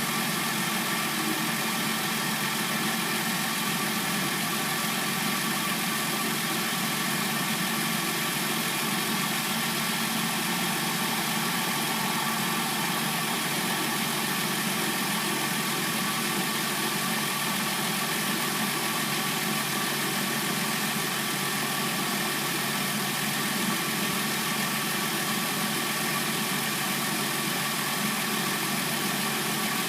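Hyundai Sonata replacement engine idling steadily as it warms up after a cold start.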